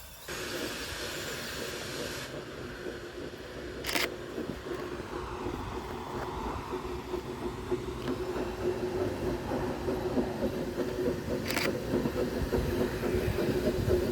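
Steam locomotive pulling out of a station: a steady hiss of steam for the first couple of seconds, then a running sound with a held low tone that grows gradually louder, broken by a sharp click about four seconds in and two more near the end.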